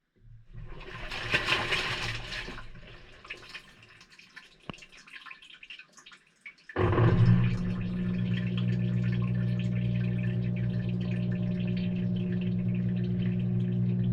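Water rushing and sloshing inside the drum of a Maytag front-loading washing machine on its delicate cycle. About seven seconds in, a steady low machine hum starts suddenly along with continuous rushing water.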